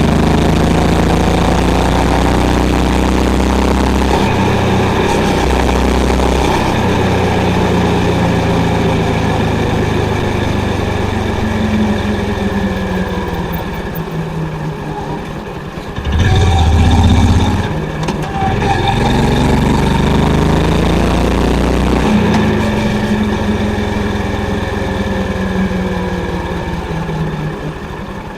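Honda CB350's single-cylinder engine and exhaust under way, its pitch rising and falling as the throttle opens and closes and the gears change. A brief, louder low surge comes about two-thirds of the way through, and the engine settles lower near the end.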